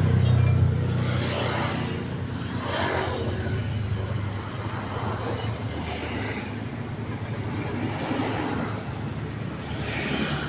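A motor vehicle's engine running steadily at a low, even speed, a little louder in the first second. Short rushes of noise come and go over it now and then.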